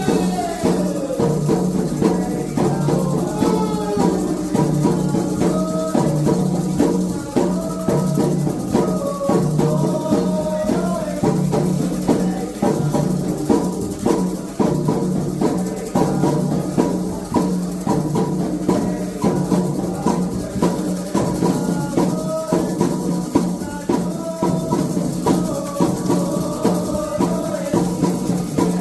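Candomblé ritual music: hand drums and shakers playing a steady, dense rhythm under sung chants.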